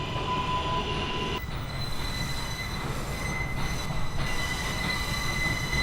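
New York subway train's wheels squealing on the rails over a steady low rumble as the train pulls into a station; the squeal jumps higher about a second and a half in.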